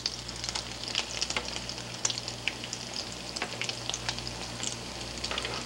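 Battered, parboiled broccoli florets frying in hot oil in a pan: a steady sizzle with many scattered crackles.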